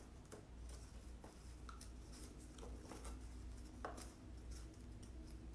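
Faint rustling and a few light ticks of twine and paper being handled as string is threaded through punched holes in a cardboard tube, over a low steady hum.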